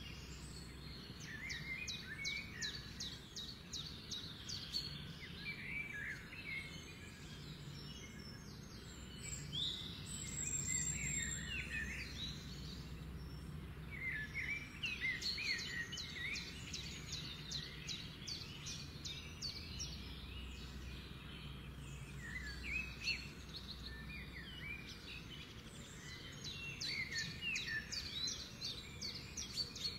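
Birds singing and chirping in repeated phrases of fast trills and short rising and falling whistles, over a faint low steady hum.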